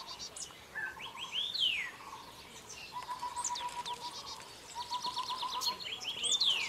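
Several birds calling together. There are looping whistled notes that rise and fall, quick high trills, and runs of short notes repeated on one pitch.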